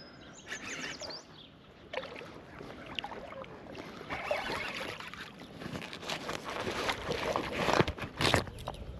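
Water splashing and sloshing, with scattered clicks and knocks, quiet at first and growing louder past the middle.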